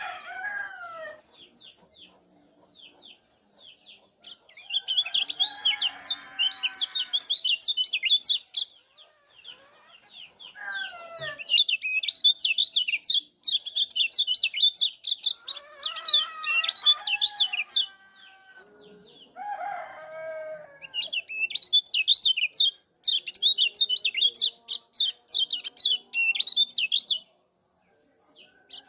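Kecial kuning white-eyes giving rapid high chirping calls in several long bouts, with short pauses between them. A few lower, falling calls from another bird come in between the bouts.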